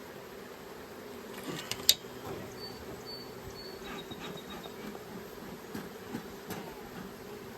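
Honeybees humming steadily around an open hive, with a few sharp clicks and knocks, the loudest about two seconds in.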